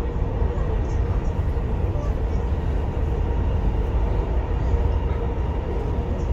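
Dubai Metro train running between stations, heard from inside the carriage: a steady low rumble with a faint steady whine over it.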